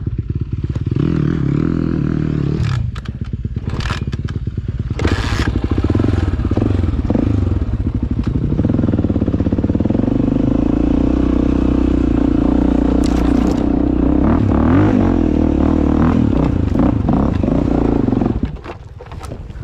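Dirt bike engine pulling hard in low gear up a steep, rutted climb, with knocks and scrapes from the bike over the rough ground. The throttle drops off shortly before the end.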